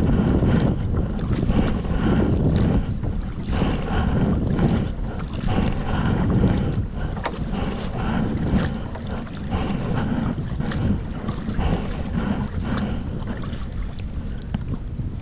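Wind buffeting the microphone in a steady low rumble, over the splashes of a kayak paddle dipping into the water about once a second, with small knocks and drips between strokes.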